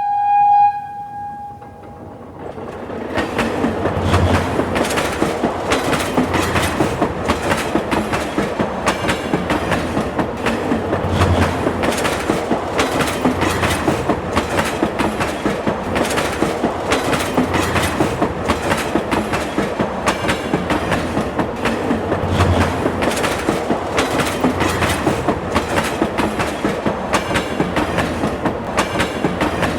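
A train horn sounds once briefly at the start. A train then runs past, its wheels clattering over the rail joints in a steady, rapid clickety-clack.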